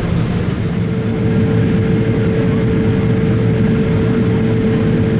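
Cabin noise inside a Boeing 777-200ER airliner in flight on descent: a steady low drone of engines and airflow. A single steady tone sets in about a second in and holds.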